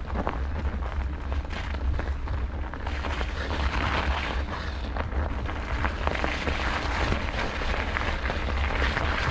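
Wind rumbling on the microphone of a bicycle-mounted camera, over the rolling noise of a bicycle, with scattered clicks and rattles from the bike. The rushing noise grows brighter about three seconds in.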